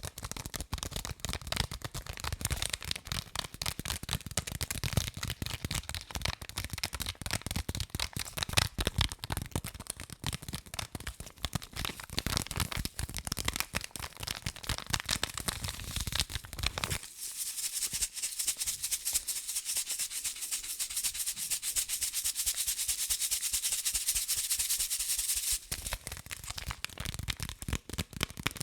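Rapid, dense tapping and scratching on objects, close to the microphone. From about two-thirds of the way in, a steady high hiss lasts about eight seconds before the quick tapping resumes.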